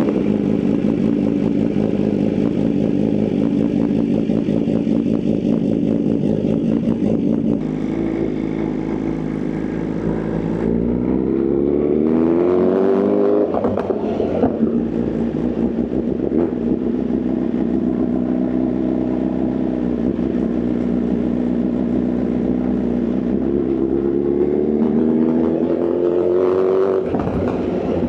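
Inline-four superbike engine on the move, holding a steady note, then twice accelerating with a rising note that drops sharply at a gear change, about halfway through and again near the end.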